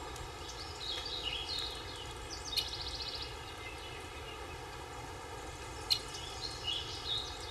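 Birds chirping, with short rapid trills now and then, over a steady outdoor background hiss; a single sharp click about six seconds in.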